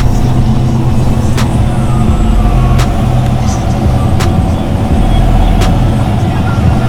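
Race truck engine running loud and steady at low revs, a deep rumble that neither rises nor falls. A few sharp clicks cut through it, about one every second and a half.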